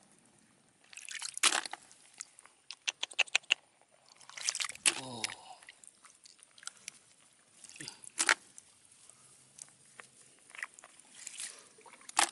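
Handling noises: sharp clicks and scrapes with some sloshing of water, including a quick run of clicks about three seconds in. About five seconds in comes one short call or voice that falls in pitch.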